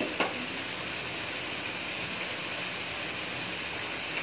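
Steady sizzling hiss of chopped tomatoes and onions cooking in oil in an aluminium pot, with a single sharp click just after the start.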